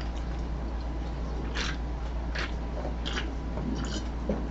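A person chewing food, with four short crisp crunches about three-quarters of a second apart over a steady low hum.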